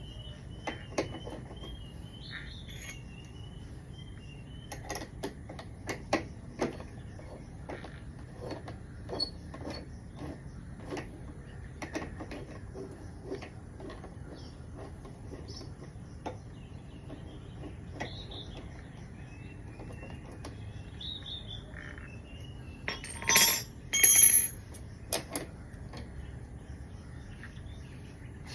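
Scattered clicks and clinks of metal tools and parts being handled, with a louder ringing metallic clatter near the end. A bird chirps faintly in the background.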